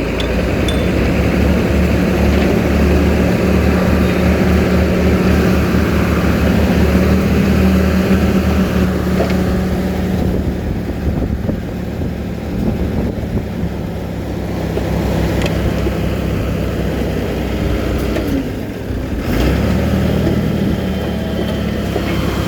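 Heavy diesel engine of earthmoving machinery running steadily under load. It eases off briefly about nineteen seconds in, then picks up again.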